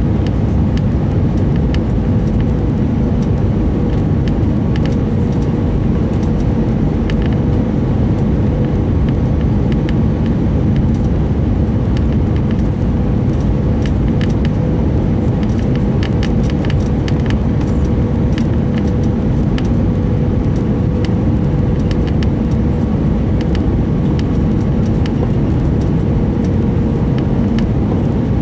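Airbus A319 cabin noise: the steady rumble of the jet engines and airflow, with a constant hum and faint scattered rattles of cabin fittings.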